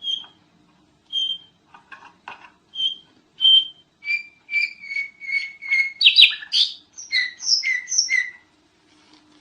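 Sooty-headed bulbul (kutilang) singing: a string of short, clear whistled notes, spaced out at first, then a quicker and louder run of two-note phrases from about four seconds in, stopping shortly before the end.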